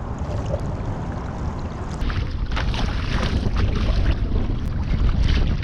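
Wind buffeting the microphone over water sloshing against a kayak, getting louder and splashier about two seconds in.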